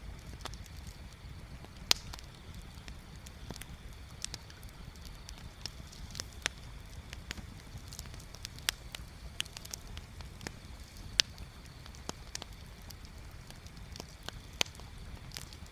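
Bonfire crackling: irregular sharp pops and snaps of burning wood over a steady low rumble, with a louder pop about two seconds in and another near eleven seconds.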